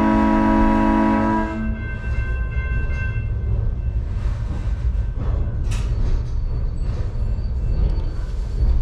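Train horn sounding a loud, steady chord that cuts off about a second and a half in. After it, the train's steady low rumble as it rolls along the track.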